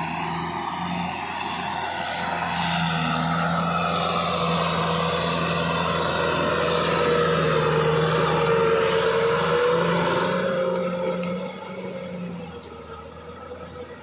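Kubota tractor's diesel engine running under load. Its hum grows louder, with a slowly wavering pitch, then falls away about eleven seconds in.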